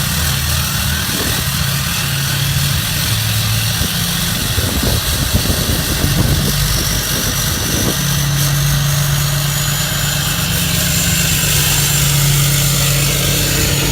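A 2014 Ram 3500's 6.7 L Cummins inline-six turbo diesel idling moments after a cold start at −4°F, through a 5-inch straight-through turbo-back exhaust with the DPF deleted. The idle is uneven for the first few seconds, then settles to a steady note about halfway through, with a faint high whine slowly rising above it.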